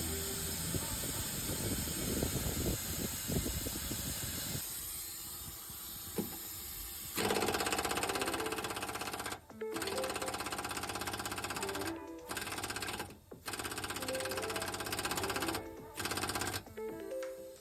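Background music, joined about seven seconds in by a pneumatic tool hammering in long rapid bursts with short pauses between them, as work goes on at the front kingpins of a Scania bus.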